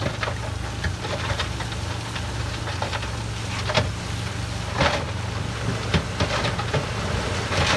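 Heavy diesel engine of earthmoving machinery running steadily, with a few sharp clanks breaking through at irregular intervals.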